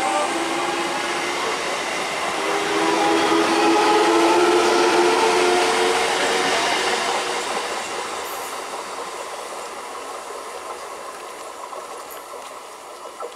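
Electric multiple unit (EMU) local train running past close by, its wheels on the rails and a whine from the motors drifting slightly lower. The sound fades steadily from about halfway through as the train moves off.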